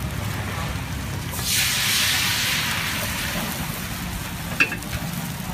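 Food sizzling on a hot pan, with a louder surge of hissing about a second and a half in that dies away after a couple of seconds. A steady low rumble runs underneath, and a single sharp click comes near the end.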